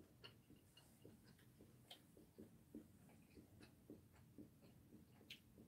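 Near silence with faint, irregular soft clicks of closed-mouth chewing, about two a second, and a couple of sharper clicks.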